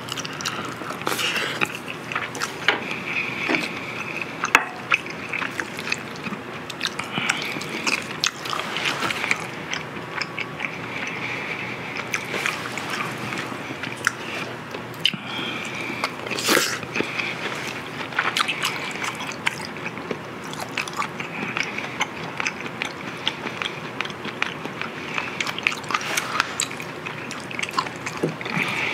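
Close-miked chewing and wet mouth sounds of a person eating marinated grilled pork ribs (dwaeji galbi), with many sharp clicks throughout.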